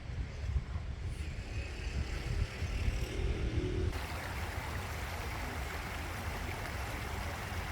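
A low, uneven rumble, then from about four seconds in the steady rushing of a river's flowing water.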